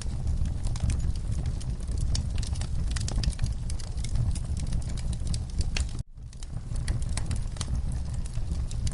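Wood fire in a fireplace crackling, with many sharp snaps over a low steady rumble; the sound cuts out for a split second about six seconds in.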